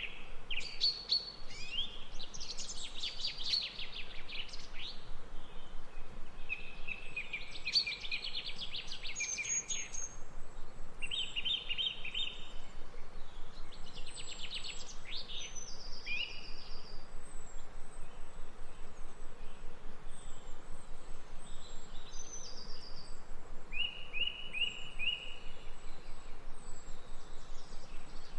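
Songbirds singing: bursts of quick, trilled song phrases through the first half, then thin high chirps repeating about once a second, over a steady background hiss.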